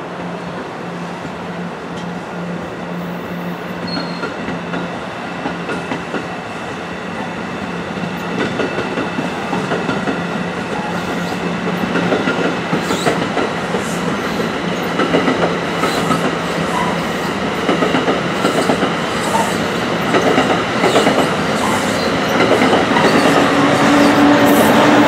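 New Jersey Transit Multilevel push-pull train passing, its bilevel coaches rumbling over the rails with wheel clicks. The sound grows louder through the second half, with more frequent clicks.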